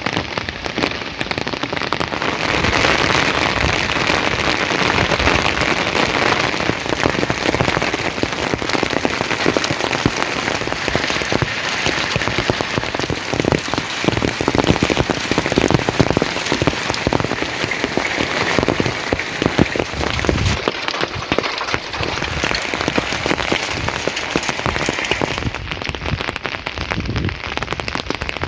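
Steady heavy rain falling, a dense patter of drops striking a surface.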